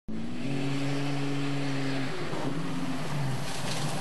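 Off-road 4x4's engine running, holding a steady pitch for about two seconds, then its revs shifting up and down.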